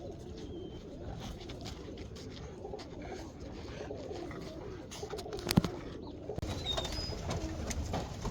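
Domestic pigeons cooing, a continuous low warbling murmur, with one sharp knock about five and a half seconds in.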